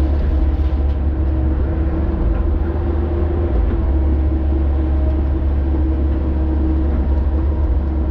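Excavator's diesel engine running steadily: a deep rumble with a constant whine above it.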